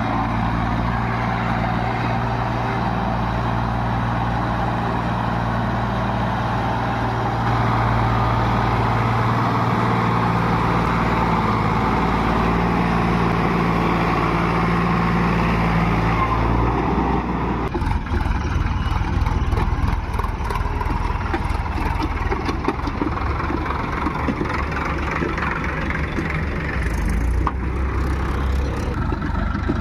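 Heavy diesel engine running steadily, then a little over halfway through it changes to a rougher, lower rumble with rapid clattering.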